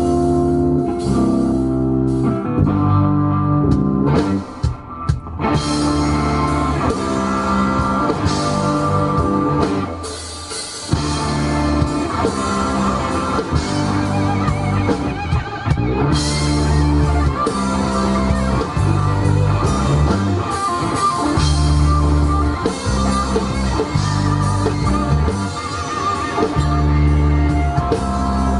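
Band playing an instrumental passage of blues-rock, with guitar over bass and a steady drum-kit beat.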